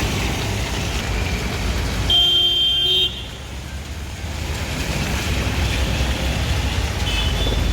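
Road traffic running steadily, with a vehicle horn sounding for about a second two seconds in and a short toot near the end.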